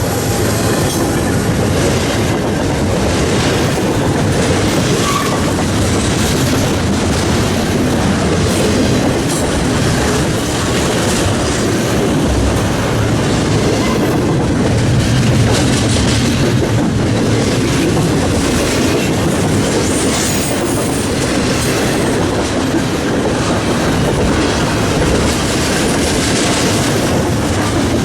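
Freight train cars rolling past at a steady pace, their wheels clacking over the rail joints.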